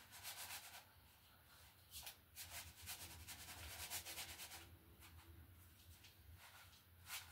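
Faint rustling and scraping of chicken breast being pressed and turned in a dry breadcrumb coating, in short bouts with a longer stretch in the middle.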